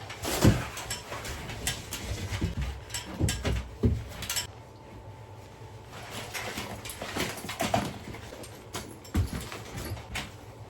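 Irregular footsteps with thumps and knocks, a few loud ones in the first few seconds and more later on.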